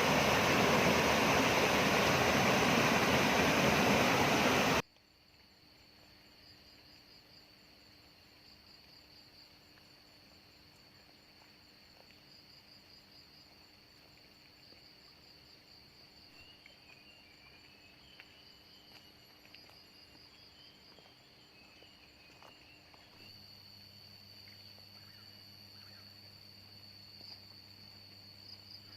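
A loud, steady rushing noise cuts off suddenly about five seconds in. It leaves quiet jungle ambience: insects trilling high in a steady pulsing pattern, with scattered chirps and a few faint ticks.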